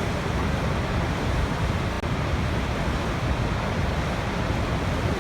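Waterfall: falling water rushing in a steady, unbroken roar of noise, heaviest in the low range.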